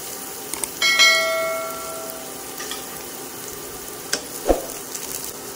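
Onion and garlic sizzling in hot oil in a wok. About a second in, a single bright bell-like ding rings out and fades over a second or so, and near the end there are two short knocks.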